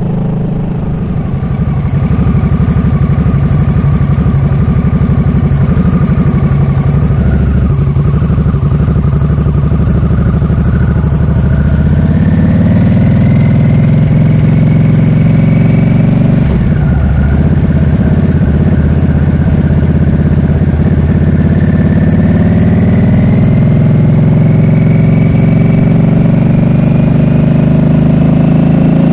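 Harley-Davidson Nightster's V-twin engine running under way, its pitch rising as it accelerates about twelve seconds in, dropping suddenly at a gear change a few seconds later, then climbing steadily again.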